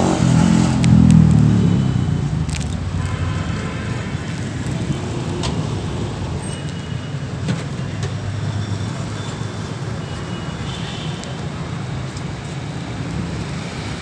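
4400 cc V8 engine of a 1984 Toyota Hilux running. It swells briefly about a second in, then settles into a steady idle.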